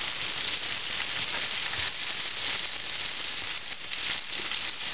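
Diced Spam and cut-up cabbage frying in hot bacon grease in cast iron skillets: a steady sizzle with small crackles.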